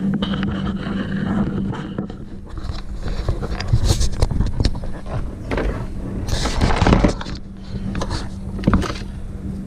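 Handling noise of a camera being moved about by hand: irregular scraping, rustling and knocks, loudest about seven seconds in, over a steady low hum.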